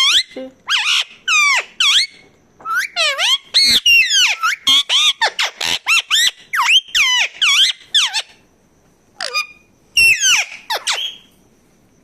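A pet parakeet, Alexandrine or ringneck, calling in a long run of rapid, shrill screeches, each sweeping steeply down in pitch, with a brief pause near the end.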